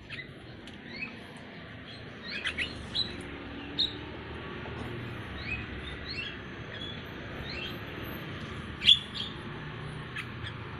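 Small birds chirping: many short, high calls repeated over a steady background hiss, with one louder call near the end.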